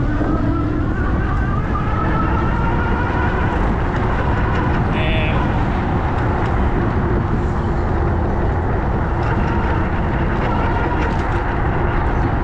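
Riding noise from an electric two-wheeler: a steady rush of wind and road noise with the motor's whine rising in pitch over the first couple of seconds as it speeds up, then holding steady. A brief high chirp sounds about five seconds in.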